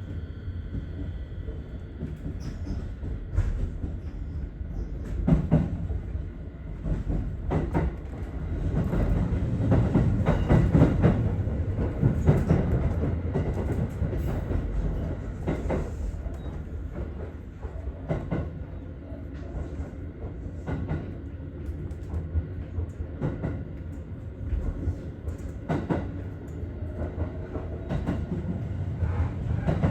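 Aichi Loop Railway 2000 series electric train running along the line: a steady rumble of wheels on rail, with sharp clacks every few seconds as the wheels pass over rail joints. The rumble grows louder for a few seconds around the middle.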